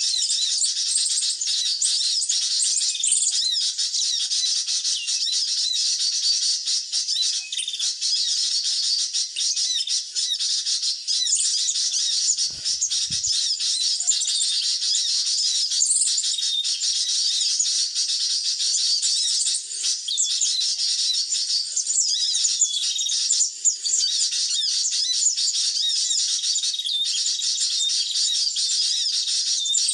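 Sunbirds' high-pitched chirping and twittering, dense and unbroken, with a brief low thud about twelve seconds in.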